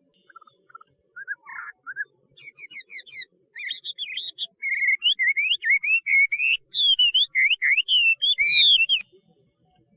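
Hwamei (Chinese laughingthrush) singing: a phrase that opens with a few soft, spaced notes and builds into a fast run of loud, varied whistled notes sliding up and down. It stops shortly before the end.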